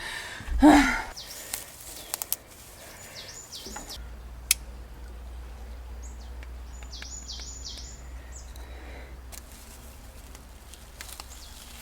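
A small bird chirping in two quick clusters of high, repeated notes over a steady low rumble, with a few sharp clicks. A brief, loud human vocal sound comes just after the start.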